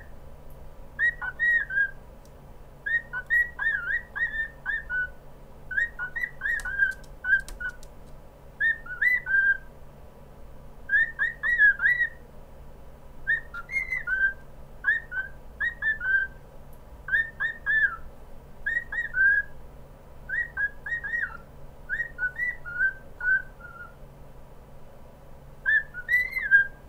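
Cockatiel whistling its song: quick phrases of short whistled notes that swoop up and down, repeated every second or two with brief pauses.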